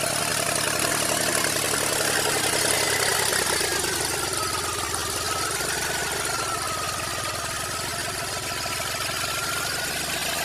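John Deere 5310 tractor's three-cylinder diesel engine running steadily, with a thin whine that slides down in pitch a few seconds in and then holds.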